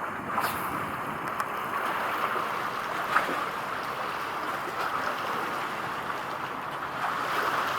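Steady noise of wind and water, with a few faint ticks.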